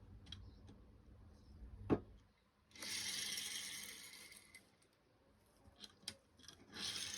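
Faint handling of a toy car and its packaging: a sharp click about two seconds in, then a rustle of about a second and a half, with a few light ticks near the end.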